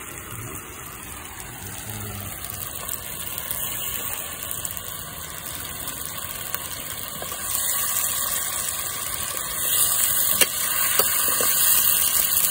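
Chicken pieces frying in hot oil in a kadhai: a steady sizzle that grows louder about eight seconds in and again about ten seconds in, with a few sharp clicks near the end.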